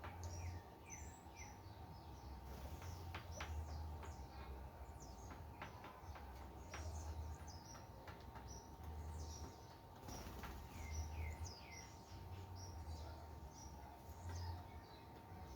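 Many small birds chirping and twittering, with short high calls and quick downward-sliding notes, and a few sharp clicks among them.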